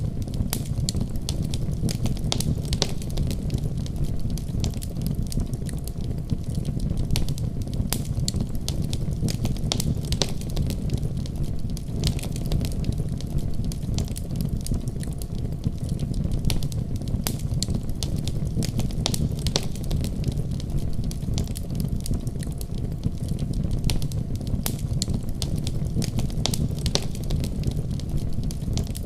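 Wood fire burning in a fireplace, with a steady low rumble of flame and frequent sharp crackles and pops.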